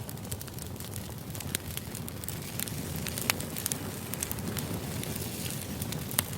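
A steady white-noise background with frequent sharp crackles and clicks scattered through it.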